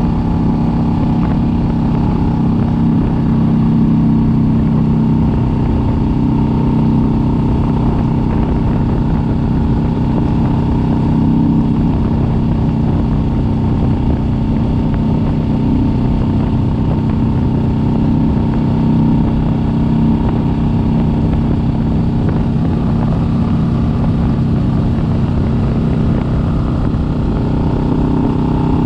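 Kawasaki Vulcan S 650's parallel-twin engine running steadily at cruising speed, heard from the bike, with only slight changes in pitch.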